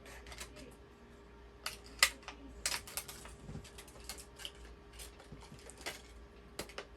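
Irregular sharp clicks and taps of small hard plastic items being handled on a workbench while a two-part marine epoxy pack is opened and dispensed, the loudest snap about two seconds in, over a faint steady hum.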